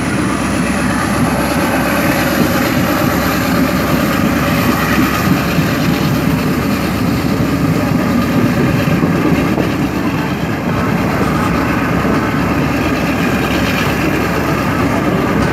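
Passenger train running slowly, heard from a carriage window: a steady rumble and wheel noise, with a faint high whine that rises in pitch over the first few seconds.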